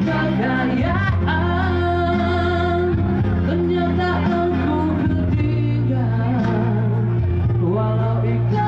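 A Malay pop ballad: a male voice singing a slow, gliding melody over sustained backing chords.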